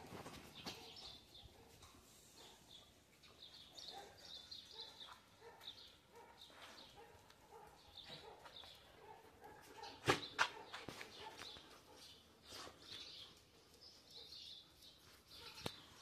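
Quiet surroundings with faint, scattered high bird chirps in the background, and a single sharp knock about ten seconds in.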